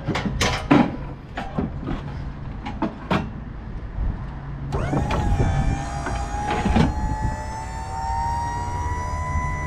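A run of sharp knocks and clanks. About five seconds in, an electric motor starts whining steadily, its pitch creeping slowly upward.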